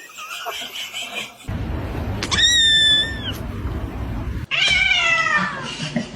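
A domestic cat meowing twice: a long meow held level that drops at the end, then a second meow falling in pitch.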